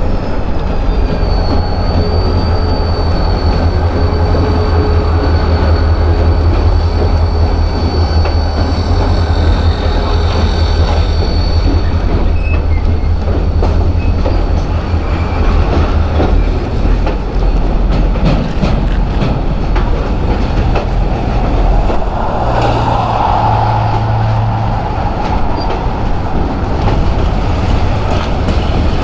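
Freight train cars rolling past on steel rails: a steady low rumble and a rapid clickety-clack of wheels over rail joints. A thin, high wheel squeal sounds for roughly the first twelve seconds and then fades.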